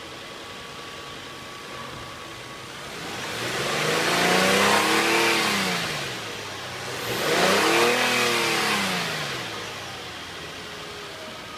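Nissan VQ25DE 2.5-litre V6 idling, then revved twice. Each rev climbs and falls back over about three seconds before the engine settles back to idle.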